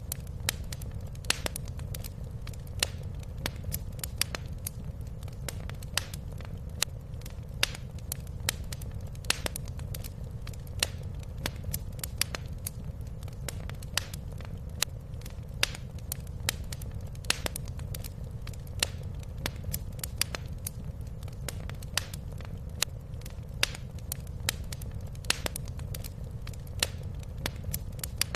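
Wood fire crackling in a fireplace: sharp, irregular pops and snaps, a few each second, over a steady low rumble.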